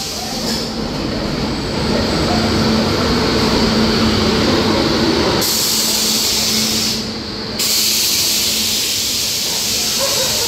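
Train at a railway platform: a steady rumble with a low hum, heavier for the first five seconds. A loud hiss of air comes in partway through, stops briefly, and returns near the end.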